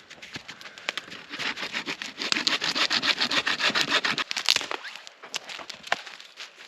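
Hand saw cutting through a branch for firewood, in fast, even scratchy strokes that grow louder and then stop. A single sharp crack comes a little after the sawing stops, followed by a few scattered knocks.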